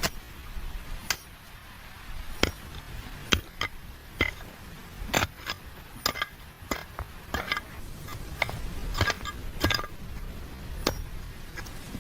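Irregular sharp clicks and clinks of hard objects knocking together, about twenty short strikes spread unevenly, some in quick pairs.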